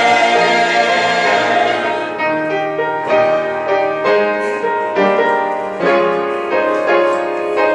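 Instrumental interlude in a choral cantata: a held chord fades out about two seconds in, then a piano plays chords struck roughly once a second, each dying away.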